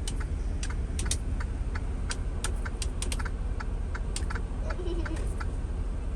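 Truck cab noise while driving: a steady low rumble from the engine and road, with a run of sharp, irregular clicks and ticks over it, bunched together in the middle.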